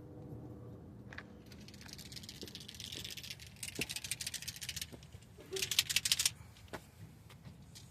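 Paint marker being shaken so that its mixing ball rattles, in two bursts of rapid clicking, the second shorter and louder.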